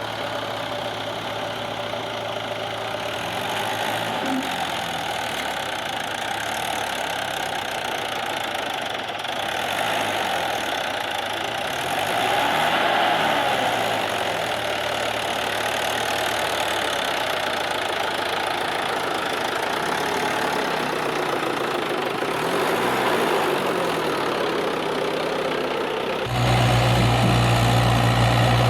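JCB 3DX backhoe loader's diesel engine running, its note shifting as the machine works. It gets a little louder about halfway through, then turns abruptly into a louder, deeper steady hum near the end.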